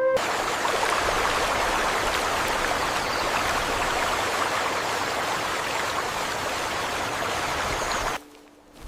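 Steady rushing water noise, even and unbroken, cutting off suddenly about eight seconds in.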